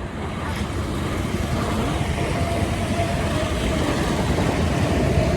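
Passenger train running along the tracks past the platform, its rumble growing louder through the first couple of seconds, with a faint steady whine over it.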